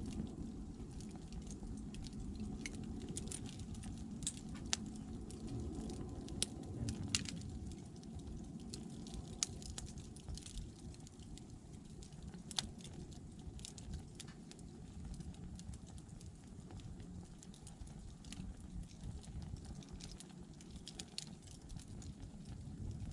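Wood candle of upright thin logs burning, with scattered sharp crackles and pops over a steady low rumble.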